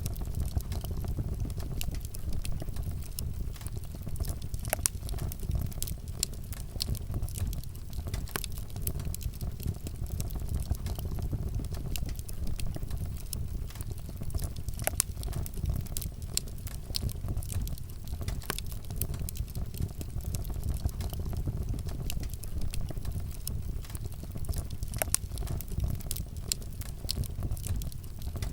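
Wood fire burning, with a steady low rumble and frequent sharp crackles and pops from the burning wood.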